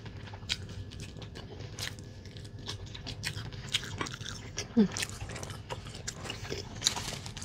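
Close-miked chewing and biting of a bony piece of meat from the soup: a string of small wet mouth clicks and crunches.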